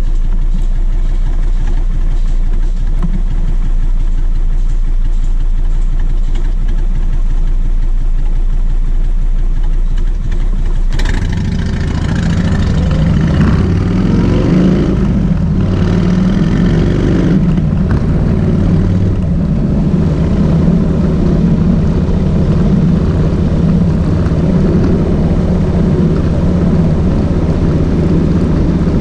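Kawasaki VN 1600 Mean Streak's V-twin engine idling with an even low pulse, then about eleven seconds in it picks up and the engine note rises and falls several times as it is ridden, before settling into a steady run.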